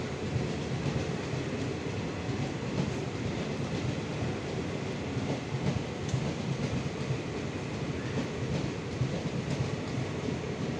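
Express passenger train rolling past with a steady rumble, its wheels clicking over the rail joints.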